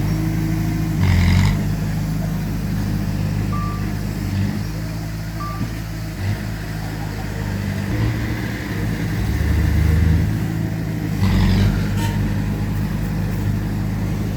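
Diesel engines of heavy earthmoving machinery, a bulldozer and a dump truck, running steadily with shifting engine note. Two short high beeps sound about a third of the way in, and there are two brief hissing bursts, about a second in and near eleven seconds.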